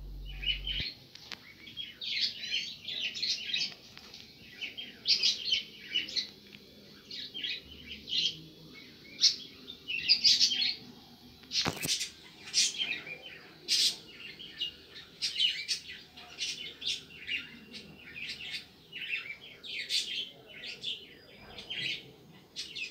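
Small songbird twittering, with a rapid run of short, high chirps throughout; a single sharp click sounds about halfway through.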